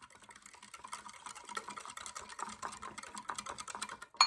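A utensil rapidly stirring a cocoa, sugar and milk mixture in a small bowl or cup, clicking and scraping against the sides in quick, even strokes. A louder sharp clink comes just before the sound cuts off.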